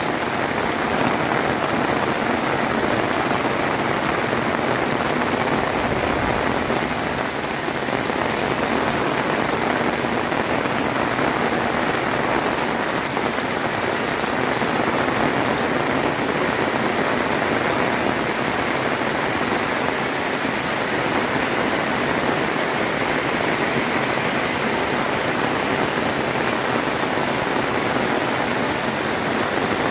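Heavy rain falling steadily, an even dense hiss with no thunder.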